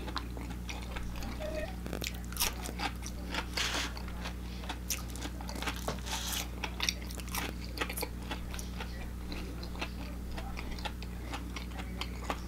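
A person chewing crispy fried food, with irregular crunches and crackles over a steady low hum.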